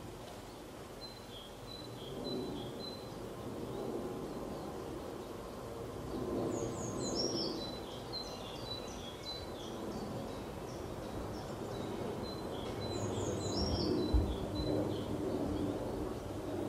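Outdoor ambience with small birds chirping in quick clusters of short high notes, some of them falling in pitch, over a steady low background rumble. A brief low thump comes about fourteen seconds in.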